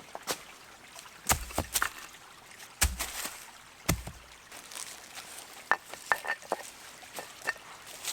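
A gentle stream trickling, overlaid by a series of sharp knocks and clicks, with three heavier thumps in the first four seconds and a few light ticks after.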